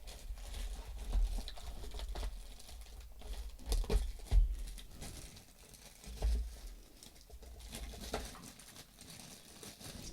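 Plastic packaging rustling and crinkling as small parts are handled, with scattered light clicks and a few dull knocks about four and six seconds in.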